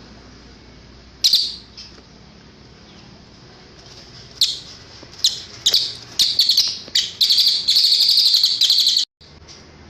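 Cililin songbird singing high, sharp notes: a single note about a second in, then from about four seconds in a run of notes that quickens into a fast, continuous trill, which cuts off abruptly near the end.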